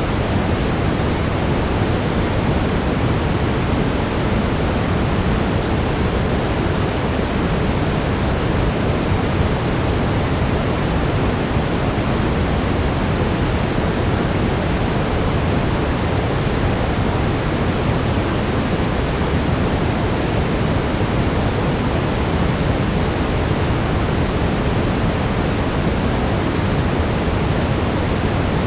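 Steady brown noise: a dense, even rumbling hiss, heaviest in the low end, that holds at a constant level with no change.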